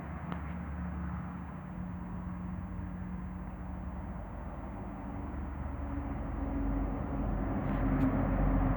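A steady low engine hum, growing louder toward the end.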